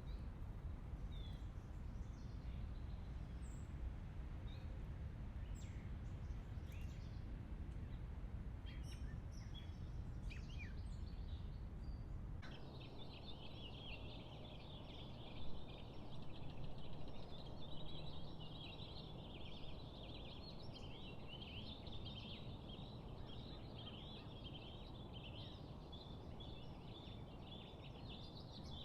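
Outdoor nature ambience: a low, steady rumble with scattered clicks and a few faint chirps, then an abrupt change about twelve seconds in to a dense chorus of high chirping calls over a quieter background, with one sharp sound a few seconds after the change.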